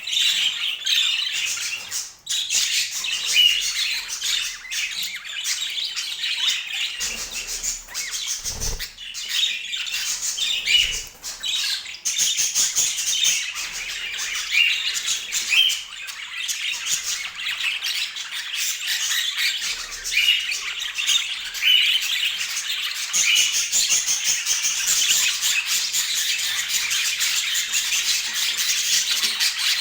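Budgerigars chattering continuously in dense, overlapping chirps and squawks.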